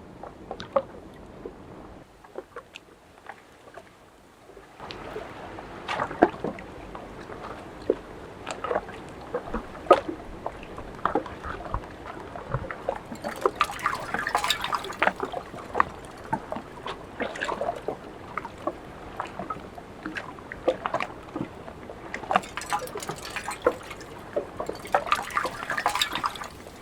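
Water trickling and dripping at a partly frozen waterfall, with many small sharp drips and splashes over a running flow. It grows fuller and busier about five seconds in.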